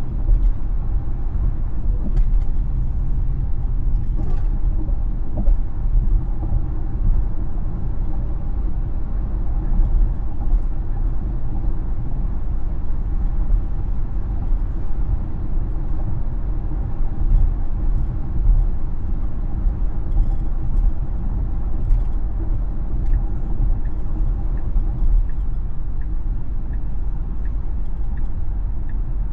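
Steady tyre and road rumble inside a Tesla's cabin while driving. A faint, even ticking, about one and a half ticks a second, starts near the end.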